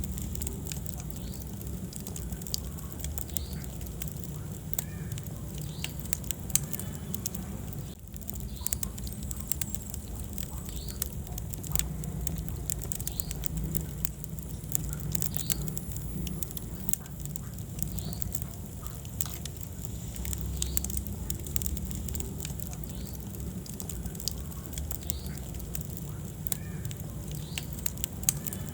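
Wood fire burning in a fireplace: a steady low rumble of flames with frequent small crackles and pops, one of them louder about six seconds in.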